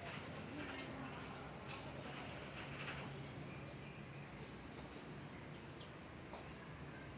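Crickets chirring steadily: one continuous, finely pulsing high-pitched trill.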